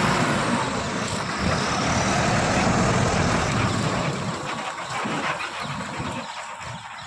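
Heavy vehicle engine running, growing quieter over the last couple of seconds.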